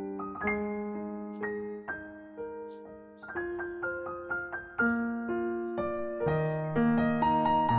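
Background music: a soft piano melody of held notes over sustained bass notes, getting fuller and louder about five seconds in.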